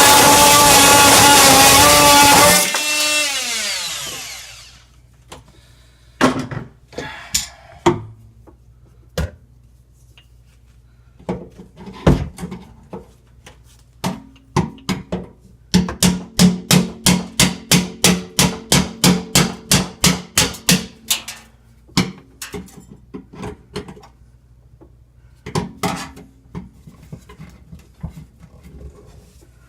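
A power tool runs at steady speed, then is switched off and spins down over about two seconds. Scattered sharp knocks follow, and about halfway through comes a quick, even run of taps, roughly three a second for about five seconds, as the rusted sink strainer is worked loose.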